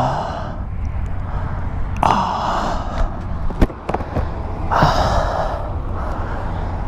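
A man's heavy, pained breaths, two long gasping exhales a few seconds apart, from a motorcyclist just after a crash, over a steady low rumble. A couple of sharp clicks fall between the breaths.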